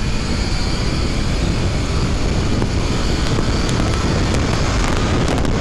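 Heavy wind rushing over a helmet microphone while riding a motorcycle at speed, with the bike's engine running underneath.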